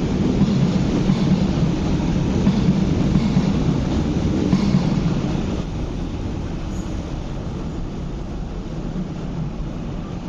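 MTR East Rail Line electric train running past on the tracks, a steady low rumble with faint wheel ticks, which falls away about halfway through as the train moves off.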